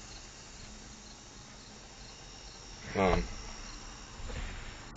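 Crickets chirping steadily in the background, with a brief voice sound about three seconds in.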